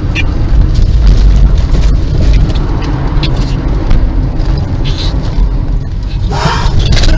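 A car on the move, with a loud, steady, deep rumble of engine and road noise. A rougher, higher burst of noise comes near the end.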